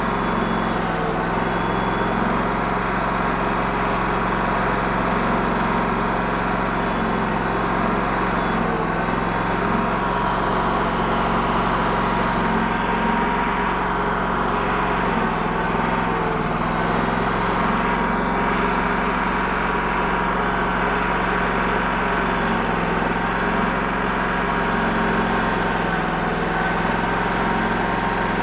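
TimberKing 2000 band sawmill running steadily while slabbing a willow log, its engine pitch sagging slightly a few times under the load of the cut.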